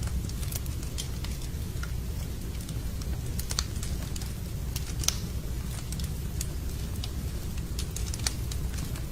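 Campfire burning, wood crackling and popping at irregular moments over a steady low rumble of the flames; one sharper pop a little past five seconds in.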